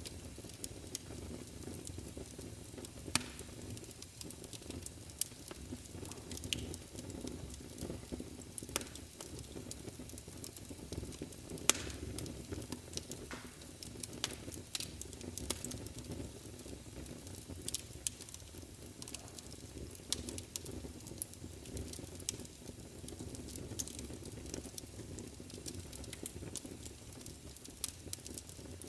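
Wood fire burning in a fireplace: a steady low rumble of the flames with irregular sharp crackles and pops, two louder pops about 3 and 12 seconds in.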